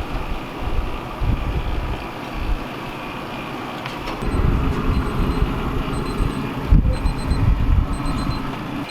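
Wind buffeting the microphone outdoors in irregular low gusts, with a steadier low hum joining about four seconds in.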